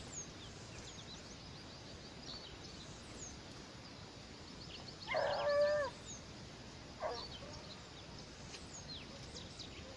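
An animal calls loudly once, about five seconds in, for under a second, then more weakly and briefly about two seconds later. Faint, high bird chirps sound throughout.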